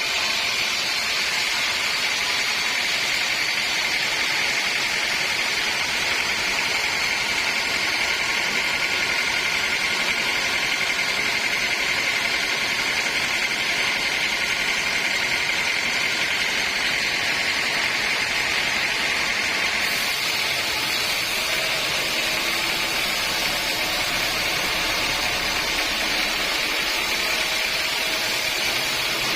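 Sawmill saw running steadily, a loud even machine noise with a high whine. The high part of the sound shifts slightly about twenty seconds in.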